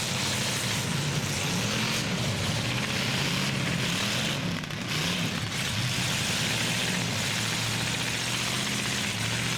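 Demolition derby trucks and SUVs with their engines running, pitch rising and falling again and again as they rev.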